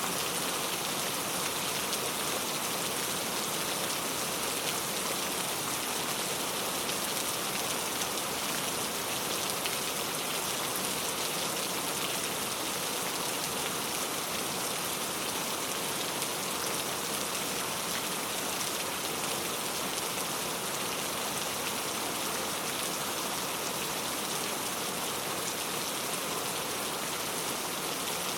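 Very heavy rain falling, a steady dense hiss of drops on surfaces that holds even, with no thunder or single drips standing out.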